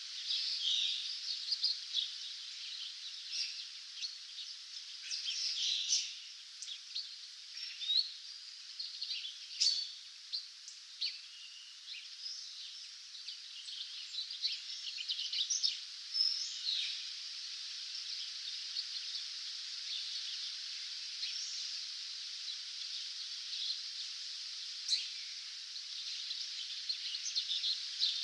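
Several songbirds singing in a dawn chorus: many short high chirps and whistled notes over a steady high hiss, busiest in the first half.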